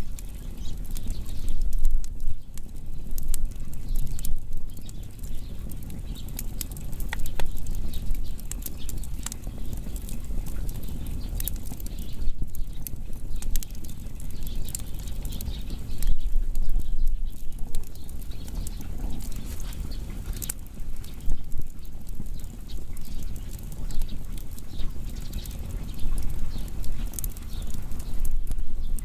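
Firewood burning, with frequent irregular crackles and sharp pops over a low, steady rumble of the fire.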